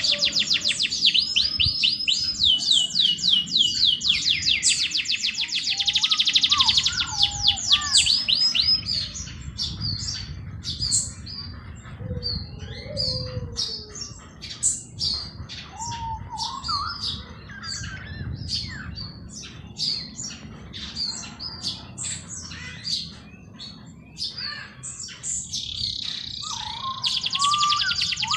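Several wild birds singing. A loud, very fast high trill runs for about the first nine seconds and returns near the end, with scattered short chirps and lower whistled notes in between. A steady low rumble lies underneath.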